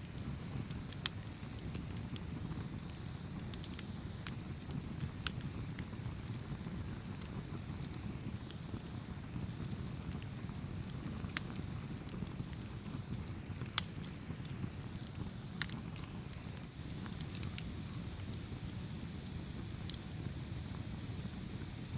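Campfire burning with a steady low rumble and scattered sharp crackles and pops from the burning wood, two louder pops about a second in and near 14 seconds.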